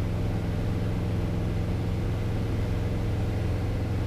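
Piper PA-28 Cherokee 180's four-cylinder Lycoming O-360 engine and propeller running steadily at cruise power in level flight, heard from inside the cockpit as an even drone.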